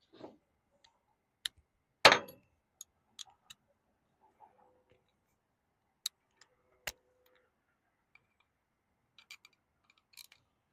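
Scattered clicks and clinks of metal hydraulic valve parts and hand tools being handled and set down, with one louder clunk about two seconds in.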